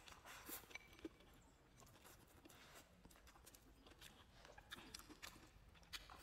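Faint chewing and mouth sounds of a person eating rice and meat from a bowl with chopsticks, with scattered small clicks.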